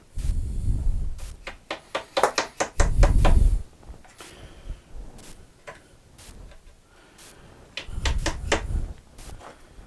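Wooden workpieces being handled: two clusters of rapid clicks and knocks, the first about two seconds in and the second near the end, with heavier low thumps among them.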